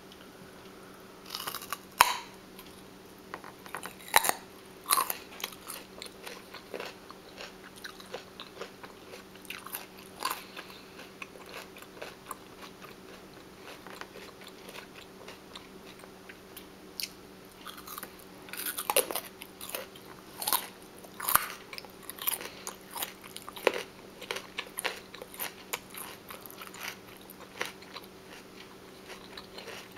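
Close-miked biting and chewing of crunchy food, each bite a sharp crunch. The crunches come in clusters, loudest about two seconds in and again around twenty seconds in, with softer chewing between, over a faint steady hum.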